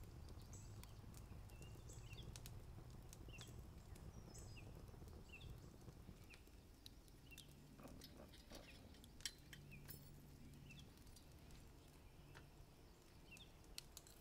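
Faint outdoor ambience: a bird giving short, high chirps every second or so, with scattered faint clicks and ticks.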